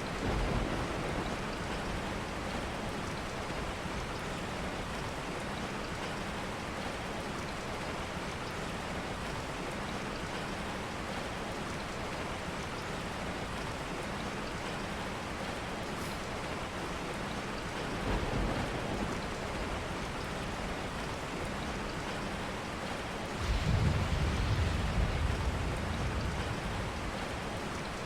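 Steady rain noise with low rumbles rising out of it three times: briefly at the start, again about 18 seconds in, and longest and loudest for a couple of seconds about 23 seconds in.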